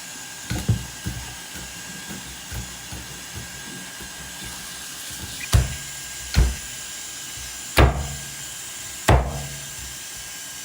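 A series of irregular, separate knocks or thuds, about seven in all, louder in the second half, over a steady faint hiss.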